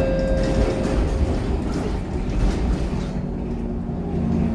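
Scania K230UB city bus with its five-cylinder diesel running under way, a steady engine drone with road noise. A low engine hum comes up in the last second or so.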